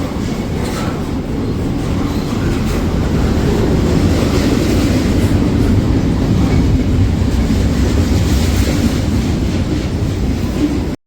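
A train passing, a steady loud rumble of wheels on the rails; the sound cuts out abruptly for an instant near the end.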